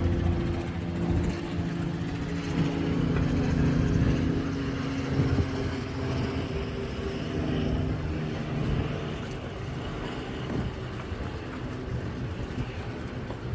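An engine running steadily, a low hum with a constant pitch.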